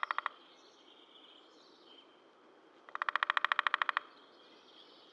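A bird's rapid trill, heard twice: each is about a second of fast, evenly repeated notes, over a faint steady high-pitched tone and outdoor background noise.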